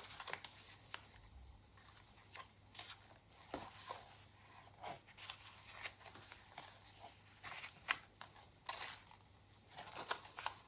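Pages of a handmade paper junk journal being turned and handled: faint, scattered paper rustles and flicks, a little busier near the end.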